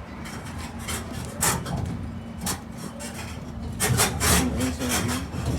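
Open-air park tram rolling slowly, a steady low rumble with repeated rattling and scraping noises from the cars.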